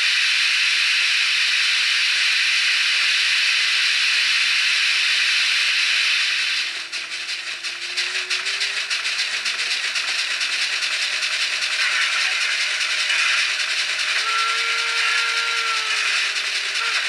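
Steam locomotive sound from a model-train DCC sound decoder (BR 01 steam engine sound file) played through a small N-gauge speaker. A long steam hiss cuts off about six and a half seconds in, then exhaust chuffs start and quicken, with a short whistle blast near the end.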